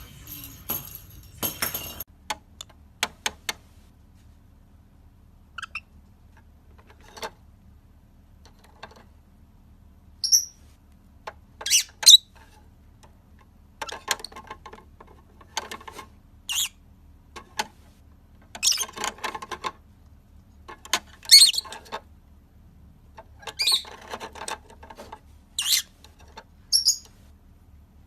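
A parrot giving short, high squawks and chirps every couple of seconds, with small clicks and rustling between the calls.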